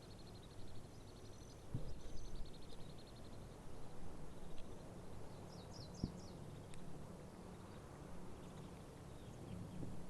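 Outdoor ambience: a bird's rapid high trill at the start and a few short chirps around the middle, over a steady low rumble, with two light clicks.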